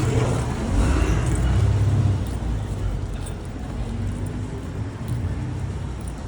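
A car passing on the road: a low engine and tyre rumble that swells about a second in, then eases off to a steady background traffic rumble.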